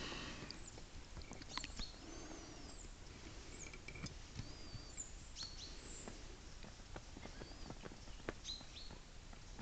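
Small woodland birds chirping, with short high whistled notes at intervals, over a quiet background scattered with small sharp clicks and taps.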